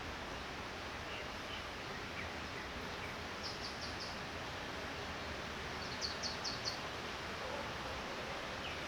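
Steady, even hiss of light rain falling. A bird twice gives a quick run of three or four high chirps, about a third of the way in and again about two thirds in.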